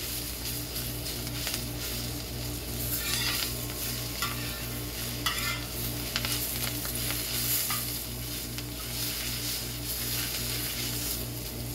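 Shredded cabbage sizzling in a hot steel discada plow-disc wok over charcoal, stirred with a long-handled metal spatula that scrapes against the steel every few seconds.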